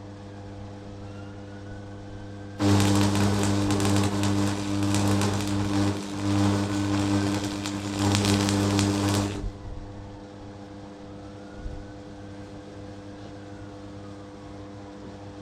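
DeWalt electric hammer under test: the motor hums steadily, and a few seconds in the hammer action engages for about seven seconds of loud, rapid hammering, with a brief let-up midway, before it drops back to the motor hum.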